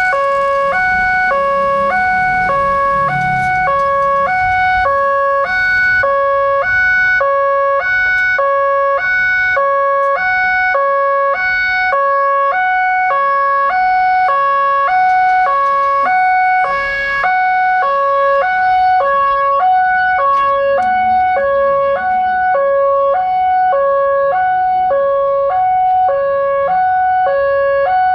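Railway level-crossing warning alarm sounding a steady two-tone signal, a higher and a lower tone alternating about every half second, the warning that a train is approaching the crossing.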